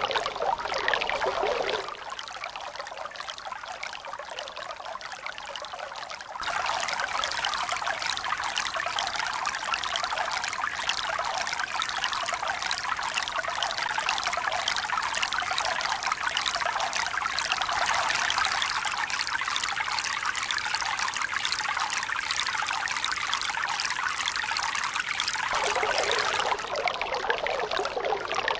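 Steady rush of running water, a pouring, trickling sound with no swell of waves. It drops thinner and quieter about two seconds in, comes back fuller and louder a few seconds later, and shifts again near the end.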